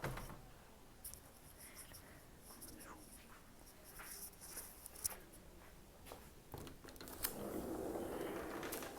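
Footsteps in Crocs: scattered soft clicks with a few short squeaks of the foam shoes. A rustling noise swells about seven seconds in.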